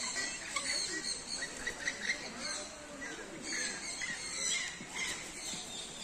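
Many small birds chirping and squeaking at once, in short overlapping high calls.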